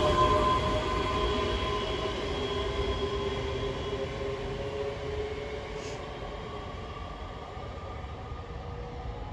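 A train moving away, its rumble and several steady tones fading gradually.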